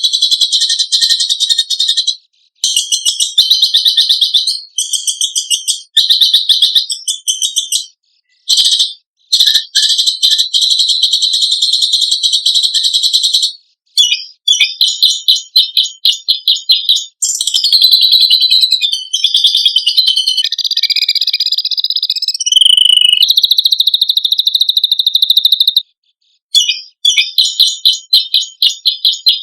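Songbird 'masteran' training track of harsh, rasping besetan calls and rapid-fire tembakan phrases: dense, very high-pitched trills and rattling notes, nearly continuous with a few short pauses.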